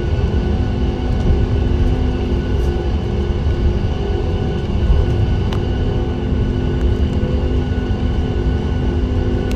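Cabin noise of a Boeing 737 MAX 8 heard from a window seat: a steady rumble with a constant hum of several tones from its CFM LEAP-1B engines, holding even throughout.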